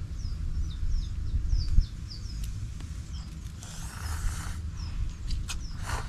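A small bird repeatedly giving short, high, downward-sliding chirps, about three a second, thinning out after a couple of seconds, over a steady low rumble of wind on the microphone. A brief rustle about four seconds in, and a few sharp clicks near the end.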